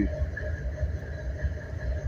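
Low, uneven rumbling background noise with a faint steady hum above it.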